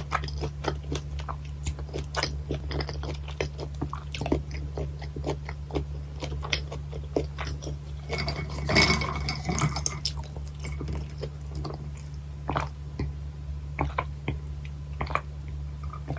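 Close-miked chewing of raw gizzard shad sashimi, cut bone-in, with many short crunchy bites and wet chewing clicks. The clicks are dense in the first few seconds and thin out later. About nine seconds in comes a louder, longer noisy sound, and a steady low hum runs underneath.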